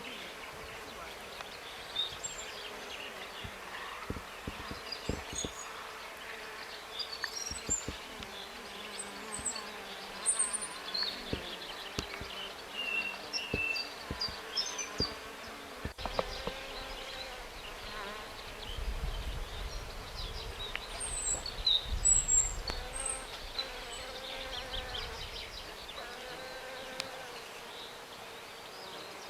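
A flying insect buzzing, bee-like, its pitch wavering up and down as it moves, with louder low swells about two-thirds of the way through. Faint short bird chirps sound high above it.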